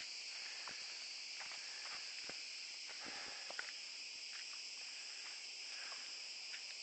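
Steady high-pitched buzzing of insects in a forest, with scattered soft footsteps and scuffs of people walking on a trail.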